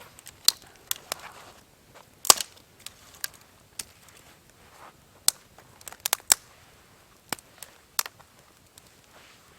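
Wood fire crackling, with sharp pops and snaps at irregular intervals.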